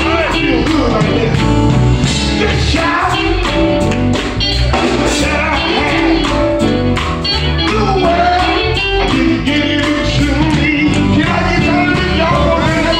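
Gospel song performed live: voices singing over a band with a steady drum beat.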